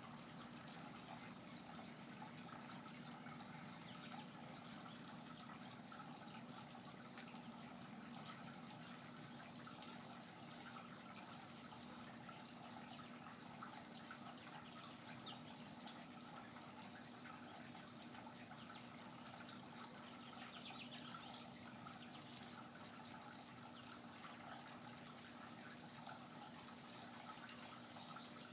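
Faint, steady trickle of water, unchanging throughout.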